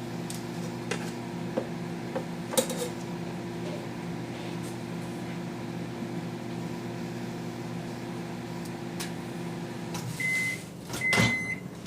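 Microwave oven running with a steady hum while cooking an ear of corn in its husk. The hum stops about ten seconds in, and the oven beeps twice to signal the end of the cook cycle, with a sharp click near the end.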